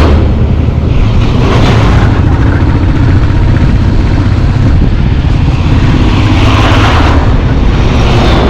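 Motorcycle running steadily along the road, its engine mixed with heavy wind rumble on the microphone.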